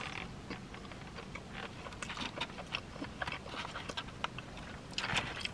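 Close-miked wet chewing of chili cheese fries, with many short, irregular mouth clicks and smacks and a denser cluster of them about five seconds in, while a plastic fork picks at fries in a foam container.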